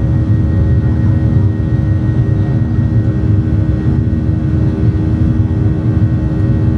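Steady cabin noise of a Boeing 737-800 in flight: an even low rumble from its CFM56 jet engines and the airflow, with a constant hum underneath.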